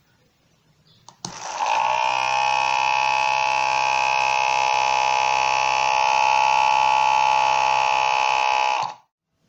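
Small electric motor of a mini blender switched on with a click about a second in. It spins up with a brief rise in pitch and runs at a steady whine, then is switched off and stops abruptly near the end.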